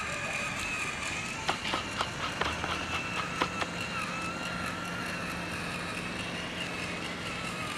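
Small DC motor of a homemade toy tractor whining steadily, its pitch wavering slightly, with a run of sharp clicks between about one and a half and three and a half seconds in.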